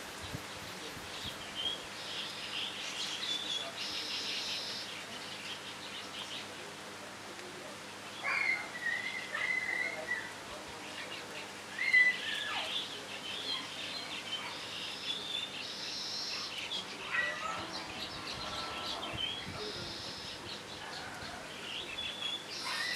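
Birds chirping and calling on and off, with louder, longer calls about eight seconds in and the loudest about twelve seconds in, over a faint steady hum.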